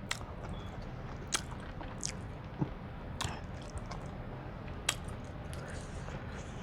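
Close-up eating of a seafood boil: chewing and wet mouth sounds, with about five sharp clicks or cracks spread through.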